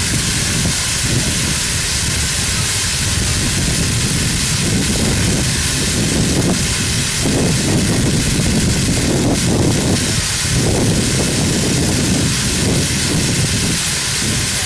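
Ex-South African narrow-gauge steam locomotive NG123 venting steam: a loud, steady hiss with an uneven rumble underneath.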